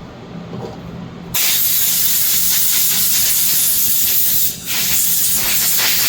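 Pressurized gas hissing hard from a nozzle onto the freshly scraped carburetor, in two long blasts: the first starts about a second and a half in, with a short break just past four and a half seconds.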